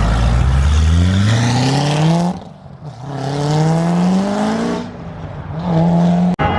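Chevrolet Corvette ZR1's V8 accelerating hard. The engine note climbs steadily in pitch, breaks off for an upshift about two and a half seconds in, pulls up through the next gear, and shifts again about five seconds in.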